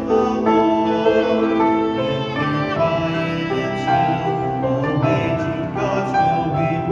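Sacred ensemble music: voices and instruments performing together, with held melody notes over a steady accompaniment.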